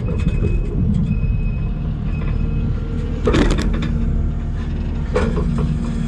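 Skid steer's diesel engine running steadily, with two short, louder crunching noises about three and five seconds in.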